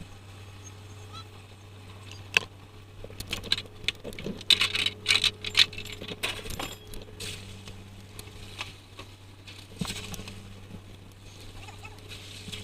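A bottom trawler's engine running with a steady low hum. A flurry of sharp clicks and short high-pitched bursts comes over it from about two seconds in until about halfway through.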